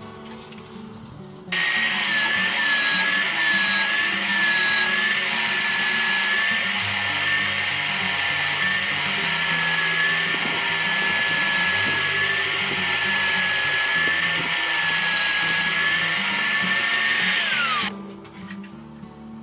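A high-pitched electric power tool switches on abruptly and runs steadily under load for about sixteen seconds, then winds down with a falling pitch near the end. Quieter background music plays underneath.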